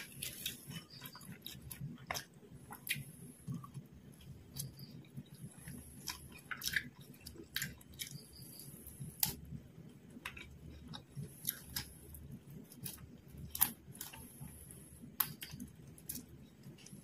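A woman chewing and biting fried quail eaten by hand, close to the microphone: irregular sharp mouth clicks, smacks and crunches.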